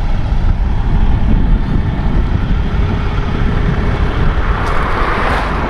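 Steady low rumble of a semi truck, with a hiss that swells near the end.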